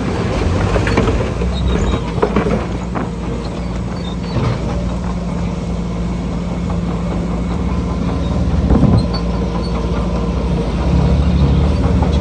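Diesel engine of heavy earthmoving machinery running steadily, with scattered metallic clanks and knocks; the engine grows louder near the end as it takes on more power.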